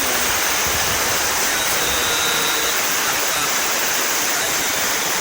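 A swollen river in flood, its fast floodwater giving a steady, unbroken rush of water.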